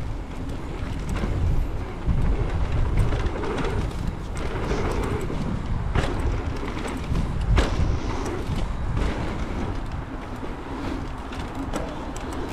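Mountain bike riding down a dirt trail: a steady rumble of tyres and wind buffeting the camera microphone, with sharp knocks and rattles from the bike as it hits bumps. It cuts off suddenly near the end.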